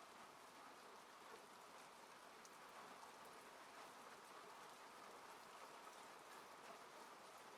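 Faint, steady rain falling on a car, heard from inside the cabin, with scattered light drop ticks.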